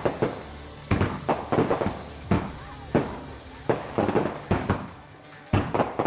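Fireworks going off in a rapid, irregular string of sharp bangs, about two a second, each followed by a short echoing tail.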